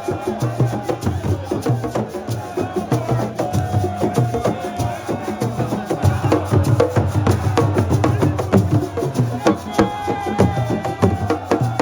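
Music of fast, dense drumming with many sharp strokes a second. A held high note comes in twice, a few seconds in and again near the end.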